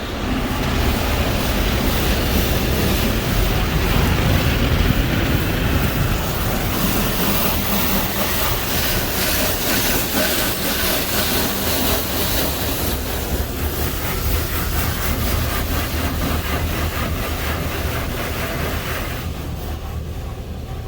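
Hanna Fusion X in-bay automatic car wash running: a loud, steady rushing noise over a low rumble. The hiss drops away near the end.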